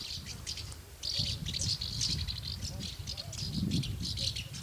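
A flock of swallows twittering: many quick, high chirps overlapping without a break, over a low rumble.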